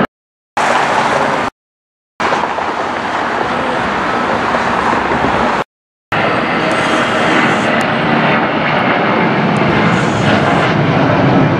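Airliner engine noise at an airport, loud and steady, broken twice near the start and once in the middle by sudden cuts to dead silence where clips are spliced together.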